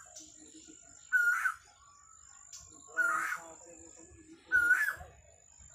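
A bird calling three times, one short call every second and a half or so, over a faint steady high-pitched whine.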